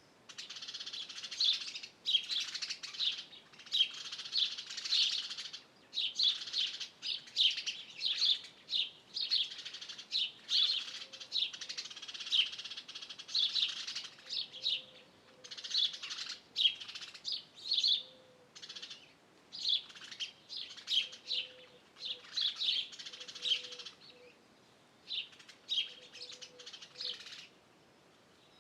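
Several wild songbirds singing at once, a dense run of quick, high chirps and trills that thins out briefly near the end. Beneath them, a faint low note repeats every second or two.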